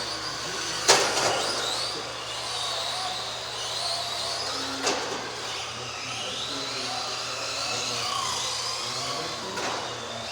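Several radio-controlled Euro Truck racers' electric motors whining together, pitches rising and falling as they accelerate and lift around the track, with two sharp knocks about one second in and about five seconds in.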